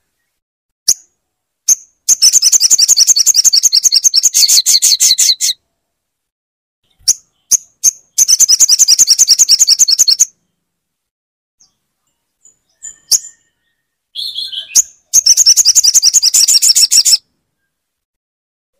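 Sogon bird song played loud: three bursts of a fast, high trill of evenly repeated notes, each two to three seconds long, separated by single sharp chips.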